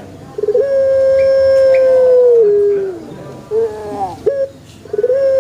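Male Barbary (ringneck) dove cooing: a long, steady coo that opens with a short rolling stutter and drops in pitch at its end about two and a half seconds in. A few short rising notes follow, then a second long coo starts near the end.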